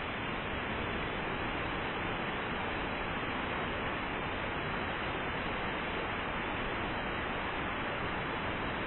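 Steady rush of falling water from a waterfall, an even hiss with no change.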